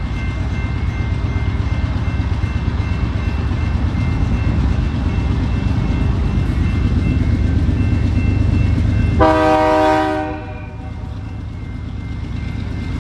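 BNSF diesel locomotive hauling a grain train past, its engine and wheels rumbling steadily. About nine seconds in it gives one short horn blast lasting about a second, after which the rumble eases off a little.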